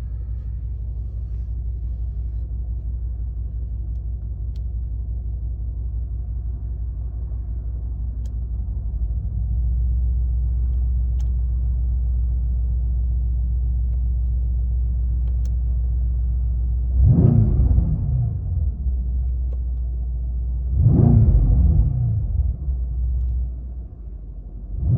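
Mercedes-AMG C63 S V8 idling after a cold start, a steady low rumble that grows louder about ten seconds in. Two short throttle blips, one about seventeen seconds in and one about twenty-one seconds in, each climbing and then falling back to idle.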